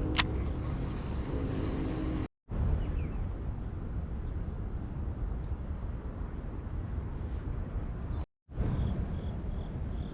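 Birds chirping over a steady low outdoor rumble, with a series of short repeated notes near the end. The sound drops out to silence twice, briefly, at edit cuts.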